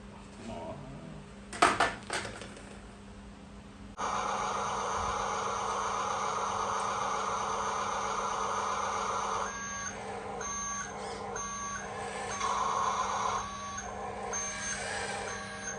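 Remote-control toy dump truck: a couple of sharp clicks, then a steady motor-like electronic rumble starts about four seconds in. From about halfway a reversing beeper joins in, beeping about twice a second.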